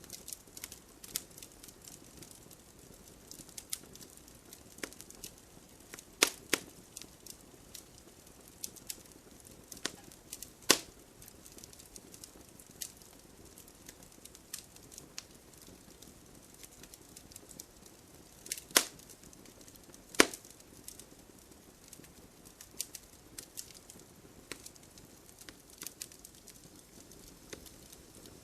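Wood fire burning in a fireplace, crackling with scattered small ticks and a handful of louder pops spread through.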